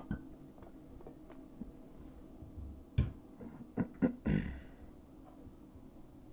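Scattered light clicks and knocks of plumbing parts and tools being handled, clustered about three to four seconds in, followed by a brief scraping rub.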